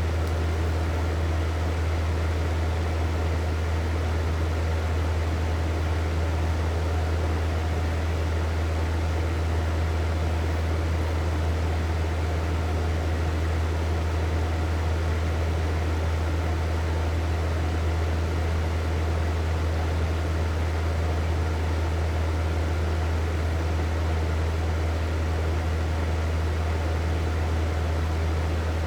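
Hair dryer running steadily: an even blowing rush over a strong low motor hum, unchanging throughout.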